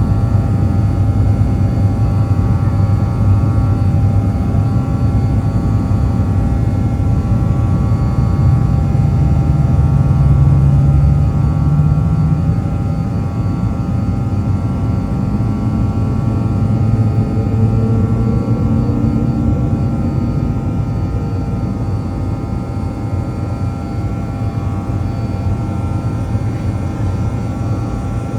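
BAe Avro RJ100 airliner's four turbofan engines running at take-off power: a steady low rumble with several steady whining tones, one tone gliding upward in pitch roughly halfway through.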